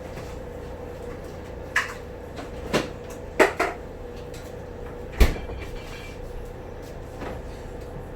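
Containers and ingredients being set down on a kitchen counter: a handful of short knocks and clunks, the loudest about five seconds in, over a steady hum.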